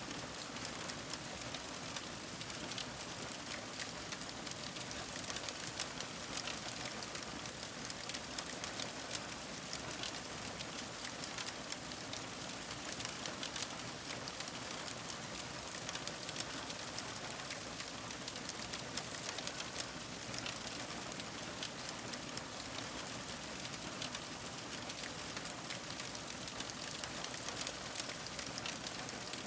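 Fire crackling: a dense, unbroken stream of small pops and snaps over a soft hiss.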